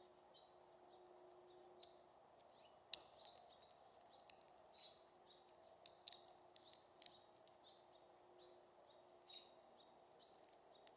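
Faint short bird chirps scattered throughout, high-pitched and irregular, with a few sharp clicks, the loudest about three seconds in.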